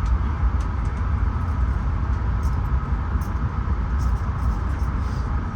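Inside a Bombardier LRC passenger car at speed: the steady low rumble of the train's running on the track, with a few faint ticks now and then.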